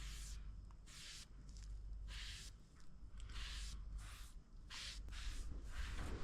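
Faint, even swishing strokes of something rubbed by hand back and forth across the dresser's wooden surface, about one stroke a second.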